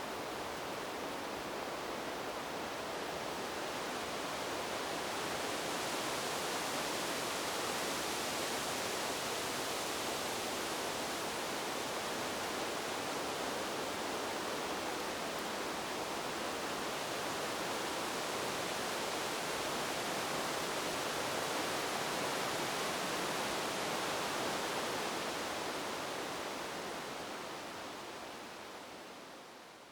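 Wind blowing through a bamboo grove: a steady rushing of leaves, swelling a little after the first few seconds and fading out near the end.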